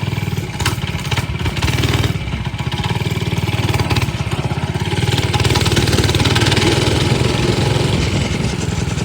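Baja DB30 Doodlebug minibike's single-cylinder four-stroke engine running under throttle as the bike is ridden, its even firing beat rising in level about halfway through and easing near the end.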